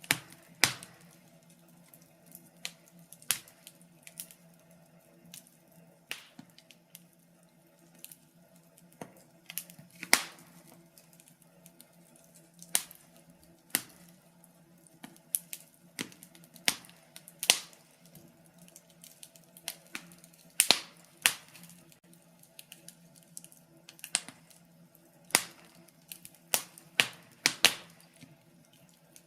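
Wood fire crackling in a fireplace: irregular sharp pops and snaps, one every second or so and some much louder than the rest, over a faint steady low hum.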